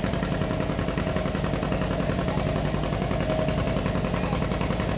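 John Deere B's two-cylinder engine running steadily with an even pulsing beat.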